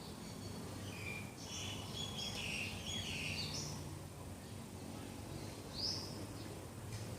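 Morning birdsong: a run of chirps and whistles about a second in, then a single rising call near the end, over a steady low background hum.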